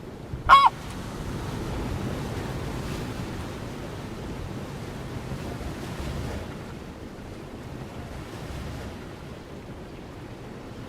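A single short, loud bird call about half a second in, over a steady rush of surf and wind on the microphone.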